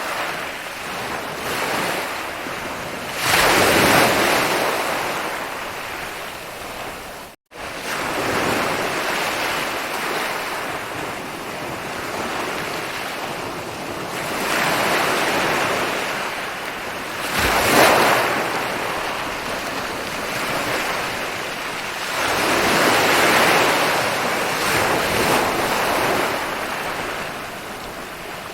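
Ocean waves breaking and rolling up a beach: a continuous wash of surf that swells as each wave breaks, loudest a few seconds in and again a little past the middle. The sound cuts out for a split second about a quarter of the way through.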